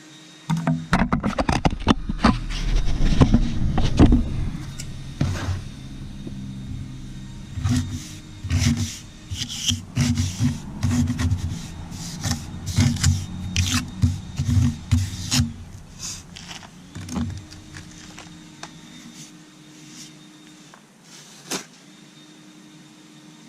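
Hand trowel scraping and tapping a mortar patch on concrete steps in a run of short strokes. Under the strokes a low, pulsing rumble starts about half a second in and fades out after about sixteen seconds.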